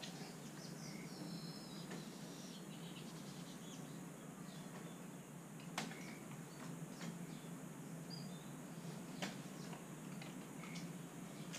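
Faint, scattered short high bird chirps over a steady low hum, with two sharp clicks, about six and nine seconds in.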